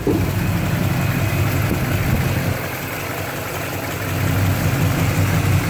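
1974 Chevrolet K10 pickup's engine idling steadily, dropping slightly in level about two and a half seconds in and picking back up about four seconds in.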